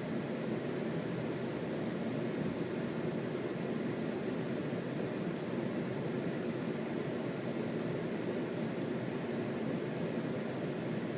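Strong wind blowing, a steady rushing noise that holds at an even level.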